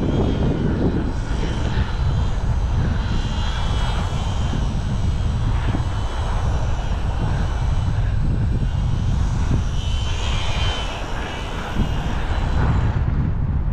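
Strong wind buffeting the microphone with a low, gusty rumble, over which the small electric motor and propeller of an ultra micro RC glider whine faintly, wavering in pitch as the plane is tossed about.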